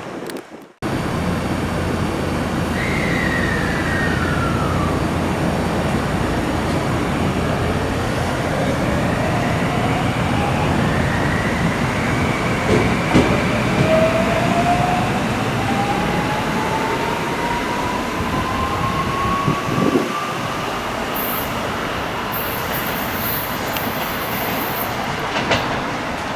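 Train running at a station platform: a steady rumble of wheels on rail with a motor whine that climbs slowly in pitch over about ten seconds.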